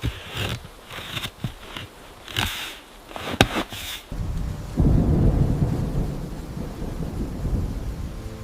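A few knocks and rustles, then a loud low rumble of thunder that swells about five seconds in and slowly fades.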